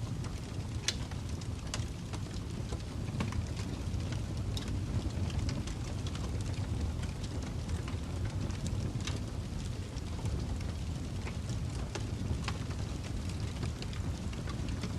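Fireplace fire burning: a steady low rumble of flames with sharp crackles and pops at irregular intervals.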